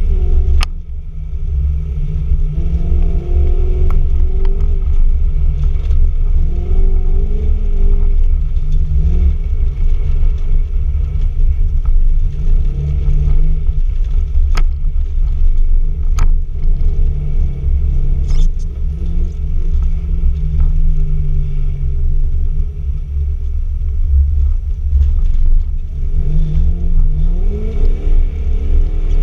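Toyota Cresta X70 engine heard from inside the cabin, revving up and down as the car is driven hard on ice, over a loud, steady low rumble from the tyres and body. A few sharp knocks cut through, one right at the start and two close together in the middle.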